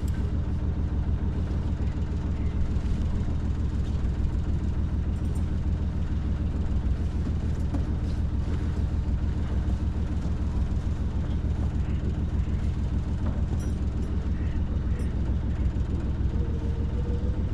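Sailing yacht's auxiliary engine running steadily under way, a low, even drone with a fine regular pulse.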